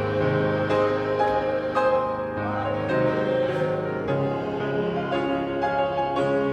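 Piano playing a slow piece of music, with chords held and changing about every second.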